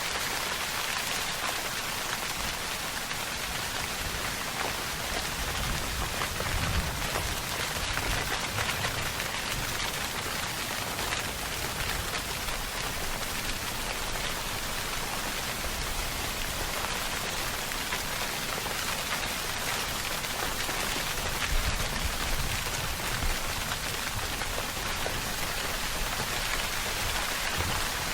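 Steady rainfall: a dense, even hiss of rain falling on surfaces, with no break.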